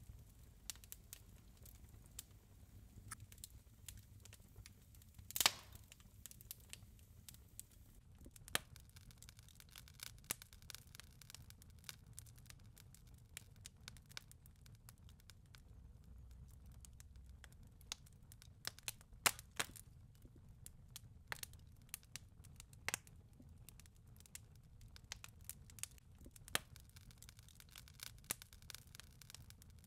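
Wood fire crackling in a fireplace: faint, irregular pops and snaps over a low rumble, with one louder pop about five seconds in.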